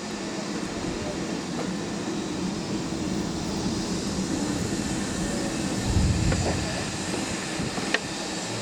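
Vintage railway carriage running along the track, heard from inside, with a steady running noise. There is a heavier low bump about six seconds in and a sharp click near the end.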